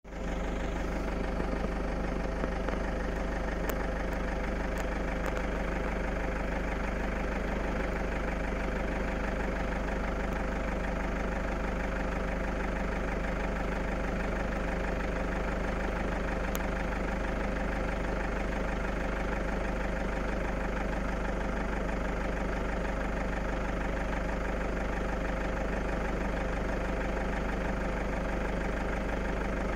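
A vehicle engine running steadily, heard from the vehicle itself, a constant low hum that does not change.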